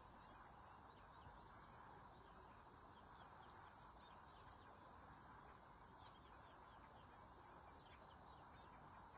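Near silence: a faint steady background hiss with many small, high chirps scattered through it.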